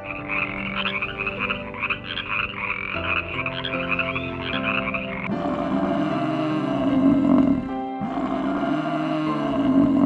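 A toad's trill, a fast run of pulses lasting about five seconds over background music. After it, a lower, wavering sound carries on with the music.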